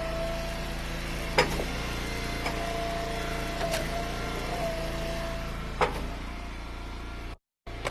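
Engine-driven Eastonmade Ultra log splitter running steadily, with a held whine that dips in pitch a few times as it takes load. Four sharp cracks and knocks come from the firewood rounds splitting and pieces dropping. The sound cuts out briefly near the end.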